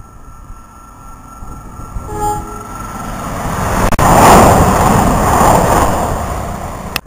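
Express passenger train sounding a short horn toot on approach, then passing the platform at speed in a growing rush of wheel and engine noise that is loudest as the front goes by, cut off abruptly near the end.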